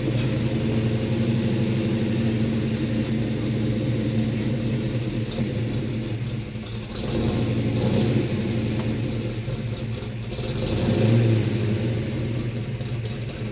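Mopar muscle car engine running at low speed under light throttle, swelling briefly twice, around the middle and near the end, as the car is eased up onto a trailer.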